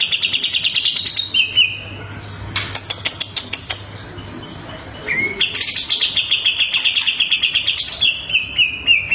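Songbird singing two runs of fast repeated high notes, the first at the start and a longer one from about five seconds in, each ending in a few lower stepped notes, with dry clicking notes between the runs.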